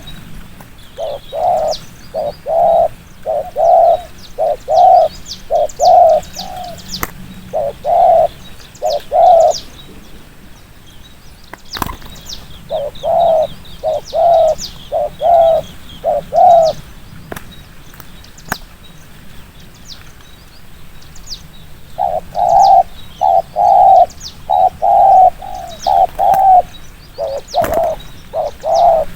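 Spotted dove cooing in quick runs of short, rapid coos ('thúc gù'), in three bouts with pauses between. Faint high chirping of small birds runs alongside, with a few sharp clicks.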